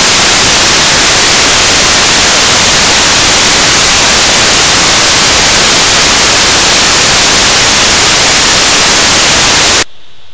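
Loud, steady static hiss that cuts off abruptly near the end.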